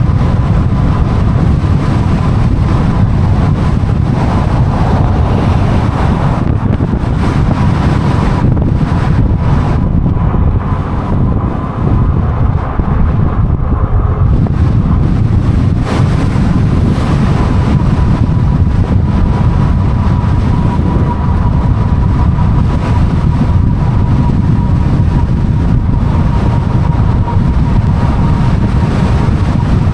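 Wind buffeting the microphone of a moving e-bike: a loud, steady rumble with a faint steady whine, dipping briefly about eleven seconds in.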